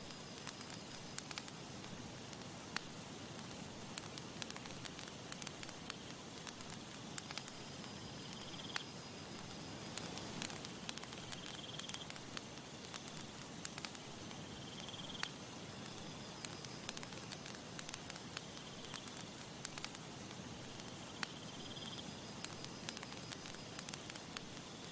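Campfire crackling steadily, with irregular sharp pops and snaps over a soft hiss. A faint short high chirp comes back about every three seconds.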